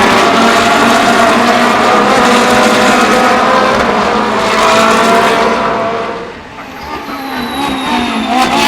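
Ferrari 458 Challenge EVO race cars' 4.5-litre V8 engines running hard on track, loud for the first five seconds or so, then falling away quickly about six seconds in as the car passes. A quieter engine follows, rising again near the end.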